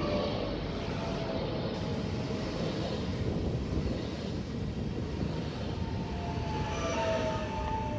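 Train running through the station with a steady rumble, and a thin squeal rising up about seven seconds in.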